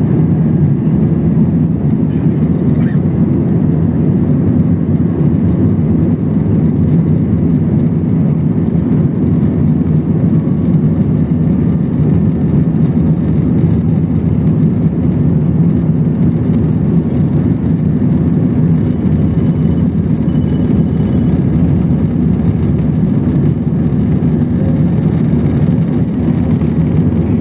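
Airbus A321 cabin noise: jet engines and airflow heard from inside the cabin as a steady low rumble that neither rises nor falls.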